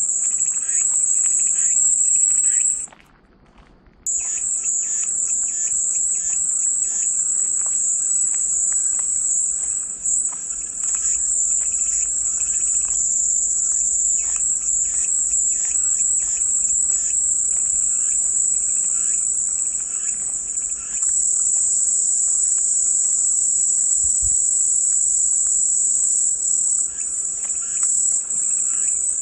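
Cicadas singing in a continuous high-pitched drone, which cuts out abruptly about three seconds in and resumes a second later. Faint short chirps sound underneath.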